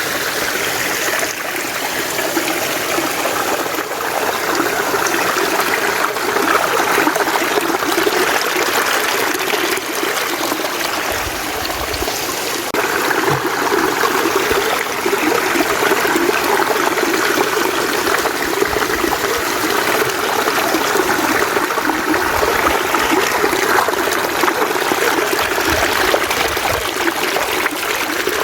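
Mountain stream running over rocks, a steady rushing and splashing of water.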